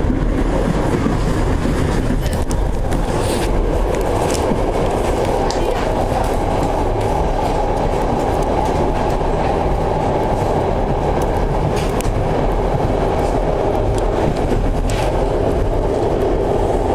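Passenger train coach running along the track, heard from inside at the window: a steady rumble of wheels on rails with a few sharp clicks over rail joints.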